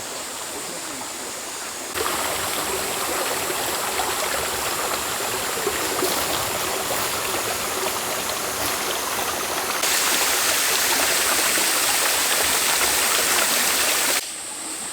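Flowing stream water, a steady rushing noise. It jumps louder suddenly about two seconds in, louder again near ten seconds, and falls back just before the end.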